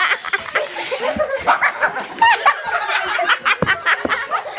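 Several people laughing and giggling in short, quick bursts, with a couple of brief knocks.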